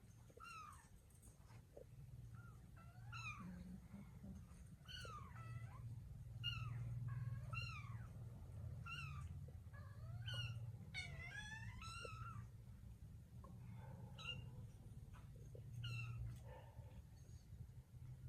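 Kittens mewing: a run of many short, high-pitched mews, coming faster for a moment about two-thirds of the way in, over a steady low hum.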